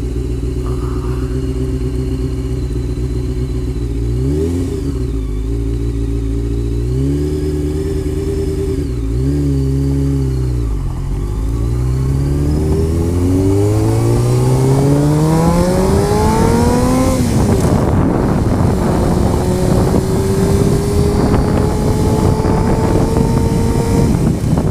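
Honda CBR motorcycle engine running steadily, blipping up and down three times, then accelerating hard with a rising pitch, an upshift drop about two-thirds in, and a slower climb in the next gear. Wind noise on the microphone builds as speed rises.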